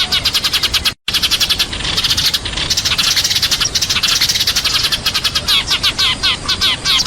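A flock of sparrows chirping rapidly and continuously in a dense, overlapping chatter, the kind of flock call used as a lure to draw sparrows in. The sound cuts out for an instant about a second in.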